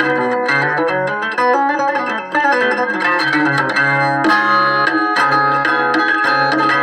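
Resophonic guitar played fingerstyle: quick runs of plucked notes over ringing low bass notes, with strummed chords now and then, in its raspy, metallic resonator tone.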